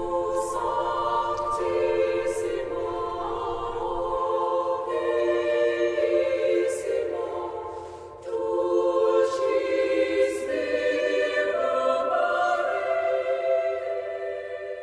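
Choir singing a cappella in sustained chords, with a brief break about eight seconds in and fading away near the end.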